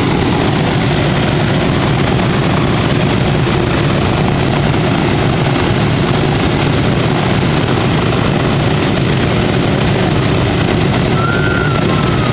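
A B-17 Flying Fortress's Wright Cyclone radial engines running steadily, a loud, even propeller roar.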